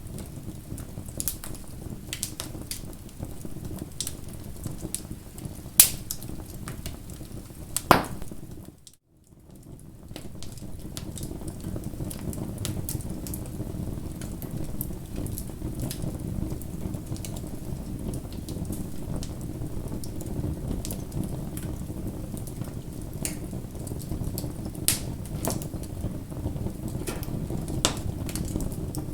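Bonfire crackling: a steady low rush of burning wood with scattered sharp pops and snaps, two loud pops about six and eight seconds in. Around nine seconds the sound briefly drops to near silence, then fades back up.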